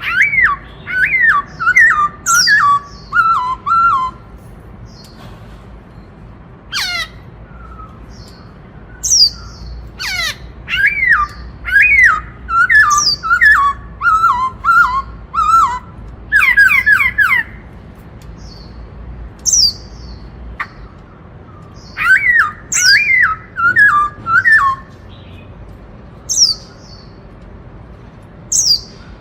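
Black-throated laughingthrush singing loudly: phrases of clear, sharp notes that step down in pitch, each run lasting a few seconds, with pauses broken by short high whistles and one long falling whistle. This is the song style that bird keepers call the 'Bắt Cô Trói Cột' voice.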